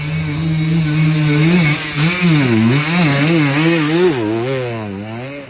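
Motocross motorcycle engine running hard close by: its pitch holds steady for about a second and a half, then rises and falls quickly again and again as the throttle is worked, and it fades away near the end.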